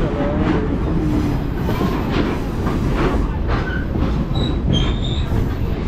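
Train cars rolling on the rails with a steady rumble and clatter, and a few brief high-pitched wheel squeals in the second half.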